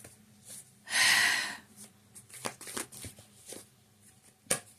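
Deck of oracle cards being shuffled and handled: a short rushing riffle about a second in, then scattered light clicks and taps of cards, with a sharper tap near the end.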